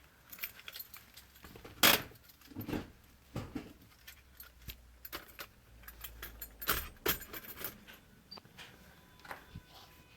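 Scattered, irregular clicks and light metallic rattles of handling noise, with sharp knocks at the very start and about two seconds in; no steady engine ticking rhythm.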